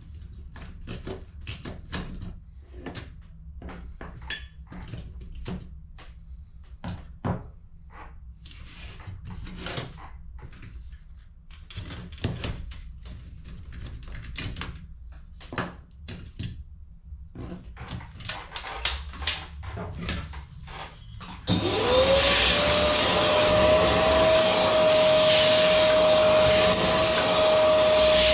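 Scattered clicks and knocks of plastic toner-cartridge parts being handled, then about three-quarters of the way through an electric vacuum or blower switches on, its whine rising quickly and settling into a loud, steady running tone.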